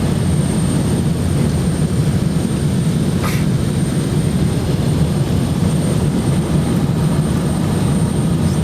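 Steady low roar of a jet airliner heard from inside the passenger cabin on its approach, engines and airflow blended together, with a faint thin high whine above it. There is a brief faint click a little over three seconds in.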